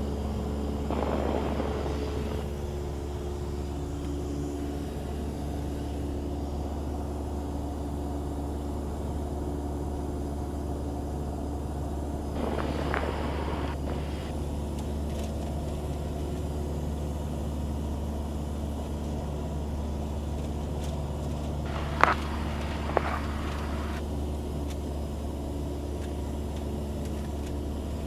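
Cessna 172 engine and propeller droning steadily in cruise, heard from inside the cabin, with two sharp clicks late on.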